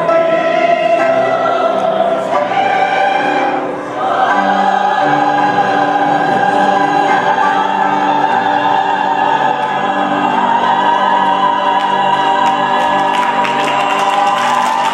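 A choir singing with accompaniment. After a few changing notes it holds one long chord from about four seconds in, and applause begins near the end.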